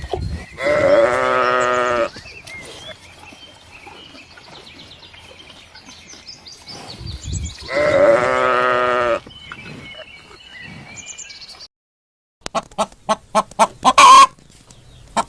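Two long bleats from goats or sheep, each about a second and a half, six to seven seconds apart. Near the end, after a short break, rapid chicken clucking begins.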